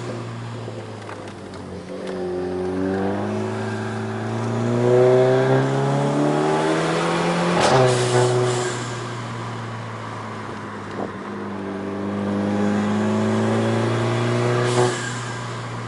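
Seat Ibiza Cupra 6J's stage 2+ tuned 1.4 TSI four-cylinder engine accelerating hard, its note rising through a gear. About halfway through, a sharp exhaust bang comes as the DSG gearbox shifts up and the pitch drops. The engine builds again and another bang comes near the end.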